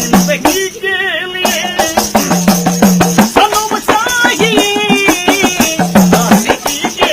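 Music: a singing voice carrying a wavering melody over a fast, steady shaking-rattle beat.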